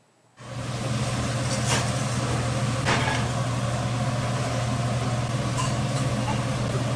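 A steady low mechanical hum with a wash of noise, cutting in abruptly about half a second in, with a few sharp clicks or knocks over it.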